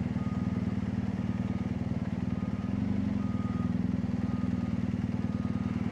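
BMW R1250GSA's boxer-twin engine running steadily while the bike rolls along the road, with a slight swell in engine note about halfway through.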